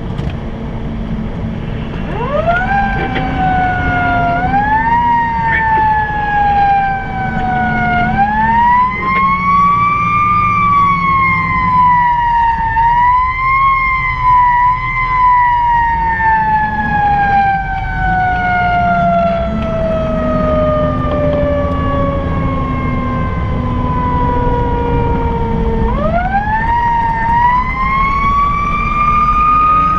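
Fire engine's siren, heard from inside the cab while responding: it winds up about two seconds in, is pushed higher in a few short steps, then falls slowly for a long stretch before it is wound up again near the end. The truck's engine runs steadily underneath.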